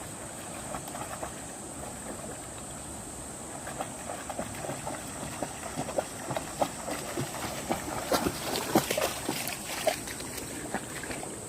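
Shallow stream running over stones, with a run of small splashes and ticks that builds through the middle and is loudest about eight to nine seconds in.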